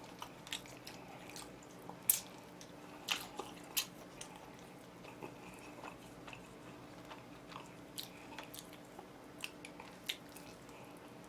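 Close-miked bites and chewing of crispy oven-roasted chicken: scattered short crunches and mouth clicks, the loudest about two seconds in, over a faint steady hum.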